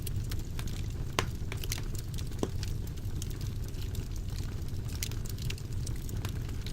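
Wood fire burning in a fireplace: a steady low roar of flames with scattered crackles and sharp pops, one louder snap about a second in.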